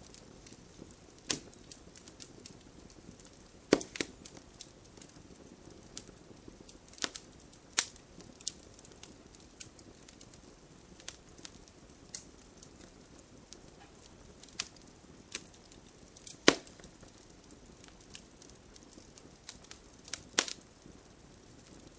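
Wood fire in a fireplace crackling: irregular sharp pops and snaps, a few louder ones, over a faint steady hiss.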